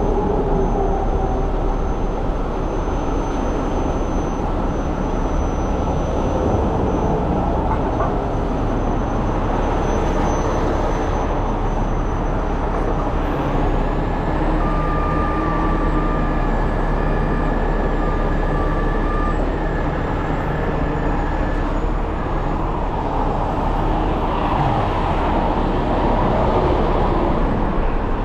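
Heavy tow truck running: a steady, unbroken vehicle drone with no break or change.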